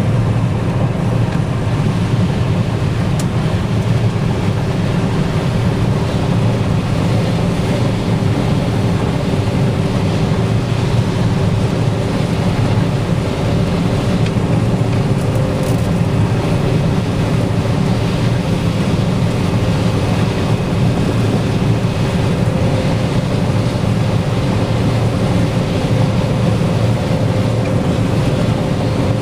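Combine harvester running steadily while harvesting corn, a constant heavy drone with a steady hum.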